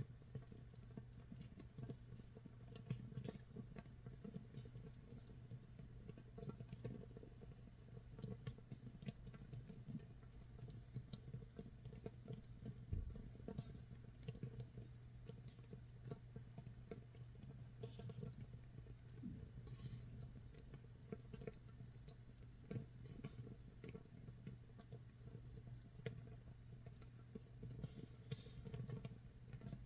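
Makgeolli starter mash (mitsul) fermenting in a crock 24 hours in: a faint, dense, irregular crackle and patter of carbon dioxide bubbles popping, like rain or rice crust crackling in a pan, over a steady low hum.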